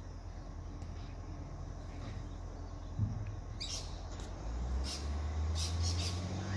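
Garbage truck engine running with a steady low hum that steps up in pitch and loudness about four and a half seconds in as it revs. A click comes near the three-second mark, followed by a run of short, high hisses or squeaks.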